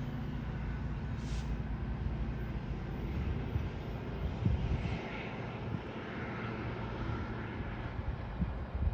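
Diesel train engine running with a steady low drone that eases after about halfway, with a few short knocks.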